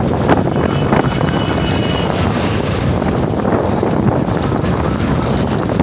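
Wind buffeting the microphone of a moving motorcycle, a steady loud rush with the engine and road noise beneath it.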